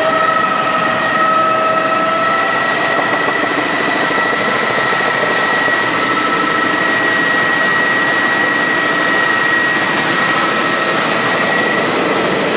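Helicopter in flight: steady rotor and turbine engine noise with a constant high-pitched whine, heard from inside the cabin. A lower tone in the whine fades out about two seconds in.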